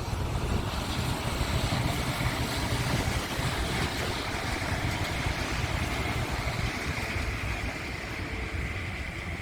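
A train running: a steady low rumble, joined from about two seconds in by a high steady whine.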